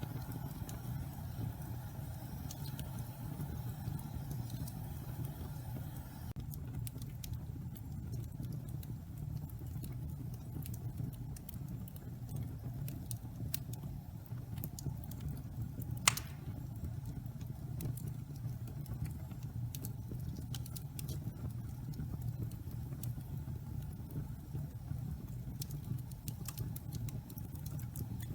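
Pine logs burning in a fireplace, some of them damp: a steady low rush of flame with frequent small crackles and one loud pop about halfway through.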